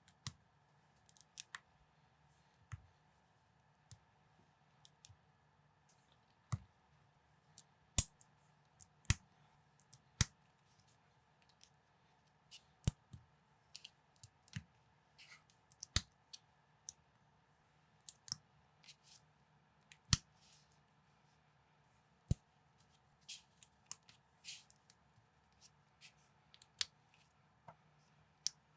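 Plastic building bricks clicking and snapping together as a set is assembled by hand: many separate sharp clicks at an irregular pace, over a faint steady hum.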